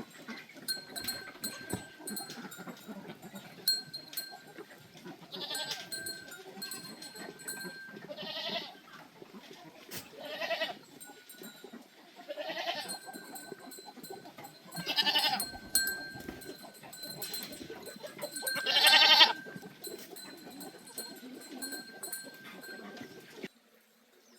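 Farm animals bleating: about six separate wavering calls, the loudest near the end, over a busy farmyard background with faint steady high tones. The sound cuts off abruptly about a second before the end.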